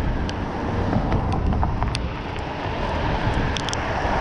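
Wind rushing over the microphone of a moving bicycle, with road noise from passing cars and a few light clicks.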